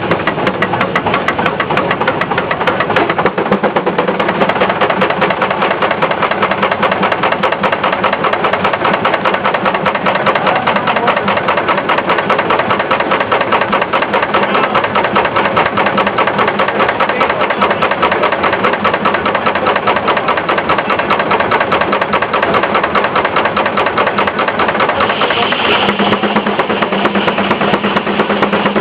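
Case steam traction engine running steadily, its exhaust beats coming in a fast, even rhythm. About three-quarters of the way through, a steady higher tone joins in.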